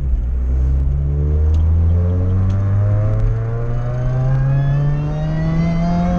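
A Chevrolet Cobalt SS's supercharged 2.0-litre four-cylinder accelerating hard, heard from inside the cabin. The engine note climbs steadily in pitch in one long pull through a single gear, without a shift.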